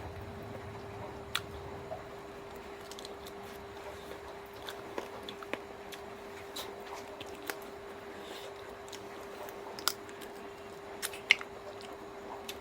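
Close-up chewing and biting on chicken feet: irregular small wet clicks and crunches, with a couple of sharper bites near the end, over a steady faint hum.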